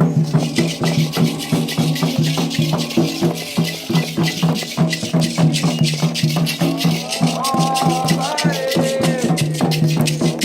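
Afro-Brazilian Candomblé ritual music: drums and a shaker rattle keeping a fast, even beat, with singing voices coming in about seven seconds in.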